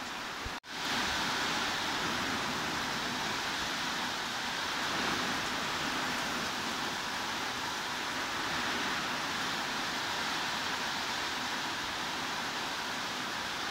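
Steady hiss of heavy rain. It cuts out for a split second about half a second in, then resumes slightly louder.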